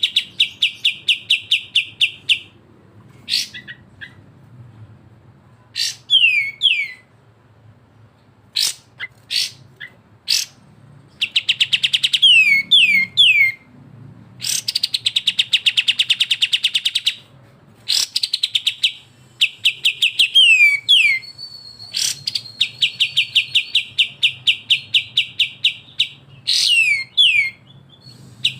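Captive songbirds of the kapas tembak and cucak jenggot kind singing their besetan: loud rapid rattling trills of about ten notes a second, each run lasting one to three seconds, broken by short downward-sliding whistles.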